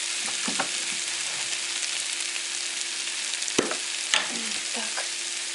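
Onion, carrot and sweet pepper with tomato paste sizzling as they fry in oil in a frying pan, a steady hiss, with two sharp knocks about three and a half and four seconds in.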